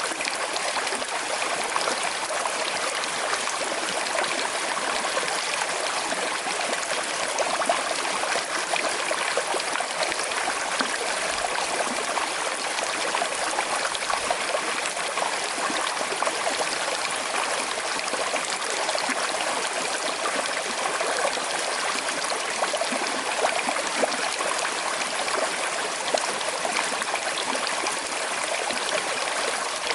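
Small river flowing over stones with a gentle current, a steady babbling and trickling of water.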